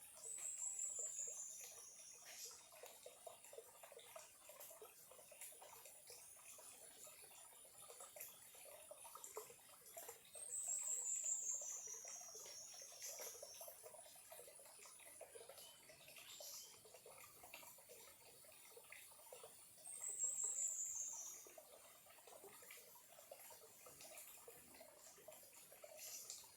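A small stream trickling faintly. Three times, about ten seconds apart, a high, rapid trill falls in pitch over a second or two.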